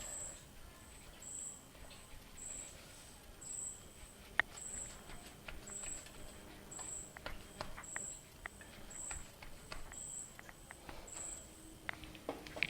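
A cricket chirping steadily, about one short high chirp every two-thirds of a second. It is mixed with scattered light clicks and taps, the sharpest about four seconds in.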